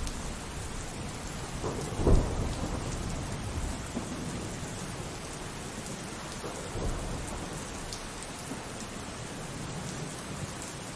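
Steady rain with thunder: a sharp thunderclap about two seconds in that rolls off into rumble, and a softer rumble of thunder near seven seconds.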